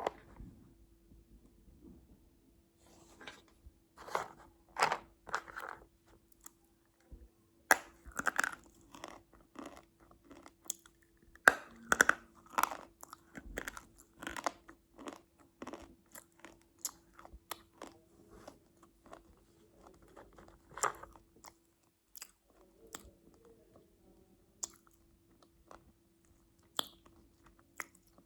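Close-miked crunchy food being bitten and chewed, with sharp irregular crunches coming in clusters.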